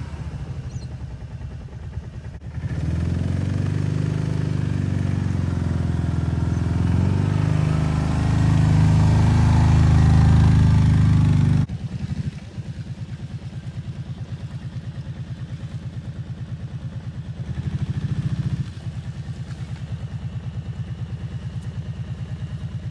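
Four-wheeler (ATV) engine running. It picks up about two and a half seconds in and runs louder under way, then drops suddenly to a steady, evenly pulsing idle about twelve seconds in, with a brief rise in revs about eighteen seconds in.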